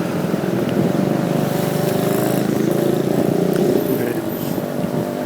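Motorcycle taxi's engine running steadily as it rides through traffic, heard from the pillion seat.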